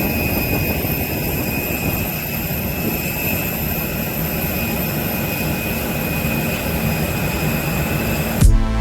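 Jet airliner engines running steadily: an even rushing rumble with a high, constant whine. Near the end it cuts abruptly to music with a beat.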